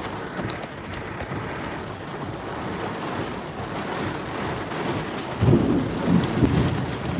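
Heavy monsoon rain falling steadily, with a low rumble of thunder that swells about five and a half seconds in.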